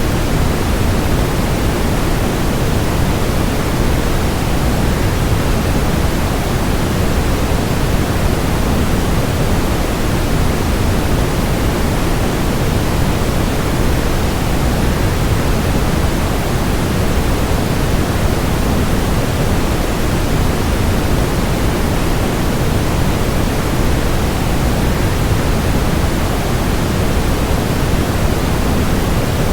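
Steady, unbroken rush of waterfall sound blended with white noise, deepest and fullest in the low end, with no change in level.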